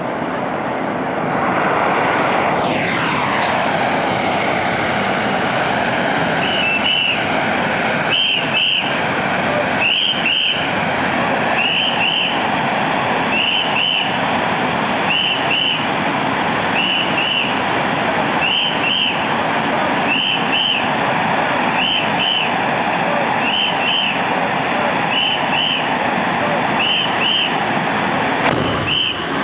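Hand-held bamboo-tube firework (tezutsu hanabi) spraying sparks with a loud, steady rushing hiss that builds over the first couple of seconds. From about six seconds in, a high double chirp repeats roughly every second and a half.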